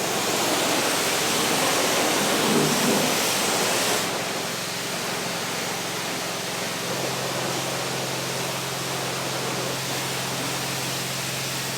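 Pressure washer spraying water onto a tile plow: a steady, loud hiss of spray with a steady low hum underneath. The hiss is strongest for the first four seconds or so, then eases a little.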